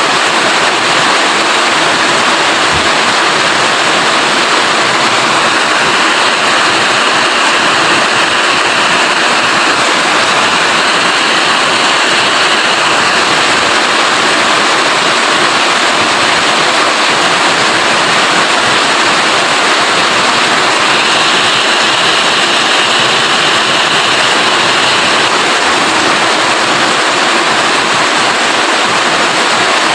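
Steady heavy rain, a loud, even hiss with no break, and a faint high tone that comes in twice, in the first half and again later on.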